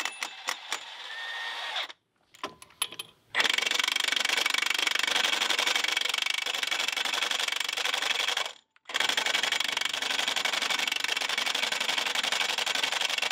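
Milwaukee M18 FUEL 1-inch extended-anvil D-handle cordless impact wrench hammering at a rusted Budd nut on a semi truck wheel without breaking it loose. The nut is thought to be rusted and probably over-torqued. The hammering runs in long stretches, stopping briefly about two seconds in and again near the nine-second mark.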